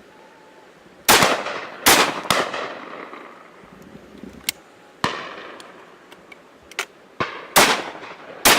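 A volley of about ten shotgun shots from a line of guns at a driven pheasant and partridge shoot. Loud, close shots come about a second in, as a pair around two seconds and again near the end, with fainter, more distant shots between them. Each shot trails off in an echo.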